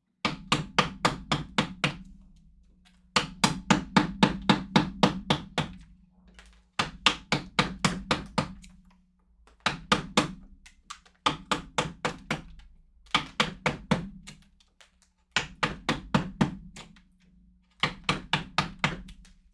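Mallet striking a carving chisel into wood in quick runs of sharp blows, about four or five a second, with short pauses between the runs.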